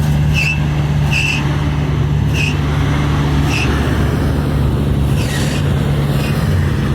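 Car engine and road noise while driving, a steady low drone. A few short high chirps come in the first four seconds.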